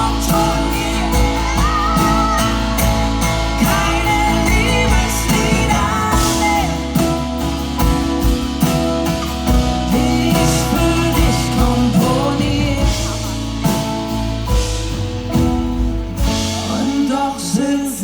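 Live acoustic band music with singing. The low bass drops out about a second and a half before the end.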